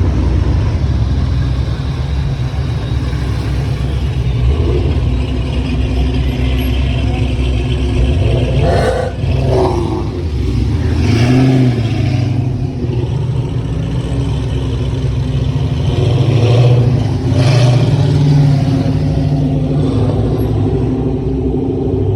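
Muscle car engines running with a steady low rumble, with a few brief rises in revs partway through.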